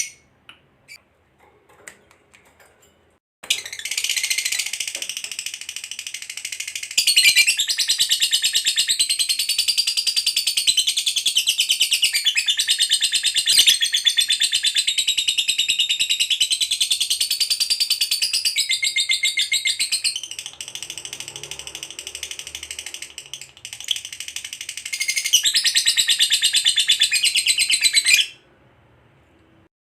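Lovebird's long 'ngekek' chatter. A few short chirps, then about three seconds in an unbroken run of rapid, high-pitched chattering trills that lasts over twenty seconds, sags briefly about three-quarters of the way through, and cuts off abruptly near the end.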